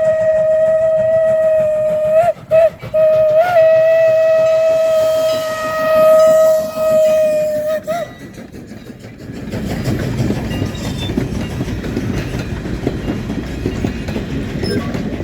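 Canadian National #89, a 2-6-0 steam locomotive, blowing its Pennsylvania banshee steam whistle in one long steady blast with a short break about two seconds in, cutting off about eight seconds in. Then the train rumbles past, its wheels clattering over the rail joints.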